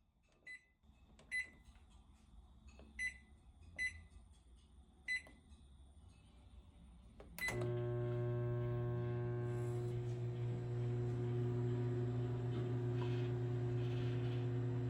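Microwave oven keypad beeping about five times as it is set, then a click about halfway through and the oven starts up with a steady hum, running on to defrost meat.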